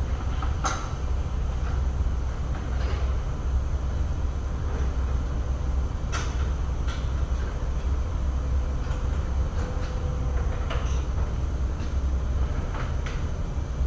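A steady low rumble with scattered light clicks and knocks, a few seconds apart.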